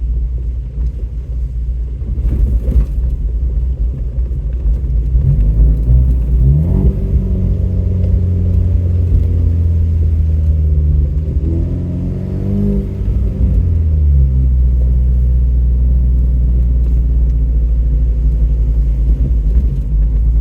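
Truck engine running at low revs, revving up about a third of the way in, holding, rising once more, then dropping back to a low steady drone.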